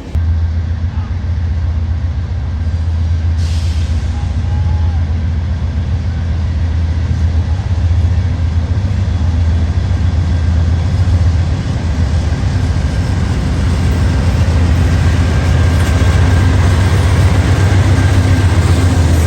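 A heavy vehicle running: a steady, loud low drone with a wide hiss over it, slowly growing louder.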